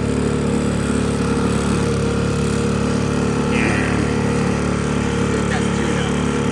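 A boat's engine running at a steady speed underway, a constant drone with no change in pitch.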